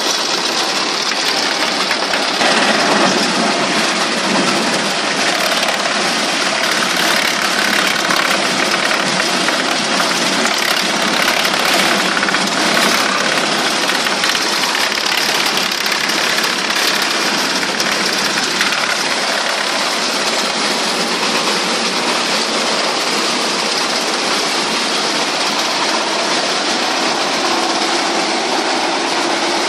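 Engine-driven wood chipper running steadily, with a loud, even mechanical noise throughout.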